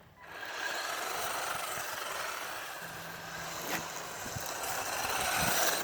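Pinecone SG-1603 1/16-scale RC drift truck driving on low throttle: the 380 brushed motor whines faintly under a steady hiss of the drift tires sliding. The sound rises slightly near the end.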